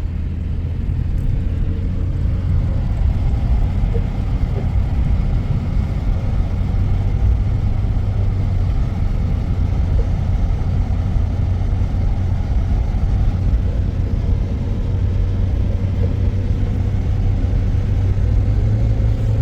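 A motor vehicle's engine running with a steady low rumble and a faint steady whine above it.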